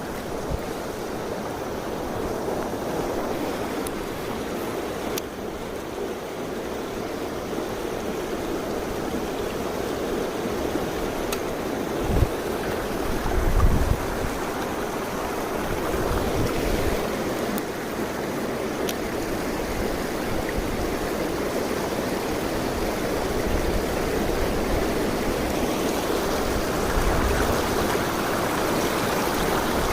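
Mountain stream rushing over rocks, a steady, even water noise, with a couple of brief low thumps about twelve and fourteen seconds in.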